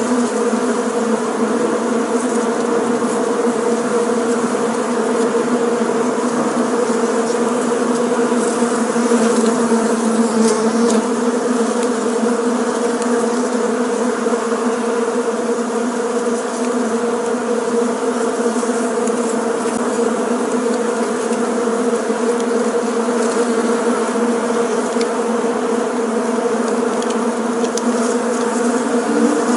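Many bees buzzing together in a steady, dense drone whose pitch holds level.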